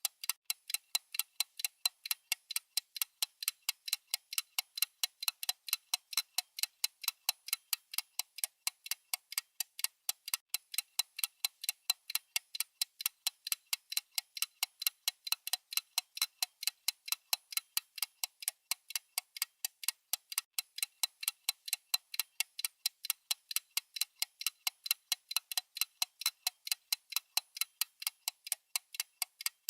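Clock-style ticking sound effect of a countdown timer: a steady, even run of sharp, high clicks, several a second, marking the time counting down.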